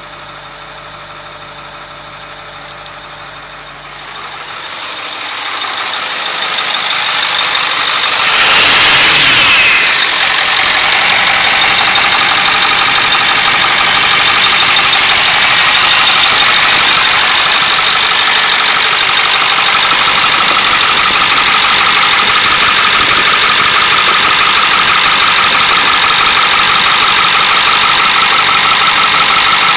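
2003 Ford F-250's 7.3L V8 turbo-diesel engine. It grows louder over the first several seconds and is loudest about nine seconds in, then runs steadily at idle.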